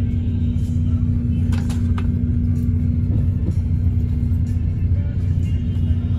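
Steady engine and road rumble inside a moving bus, with a constant steady hum underneath and a couple of brief rattles about one and a half to two seconds in.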